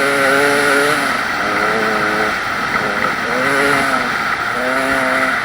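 Dirt bike engine revving up and down over and over, its pitch rising and falling in stretches of about a second, over a steady hiss.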